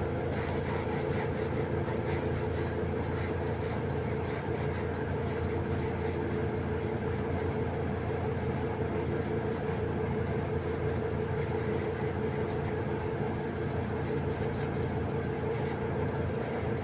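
Steady mechanical drone of running machinery: a low hum with a few steady tones, unchanging throughout.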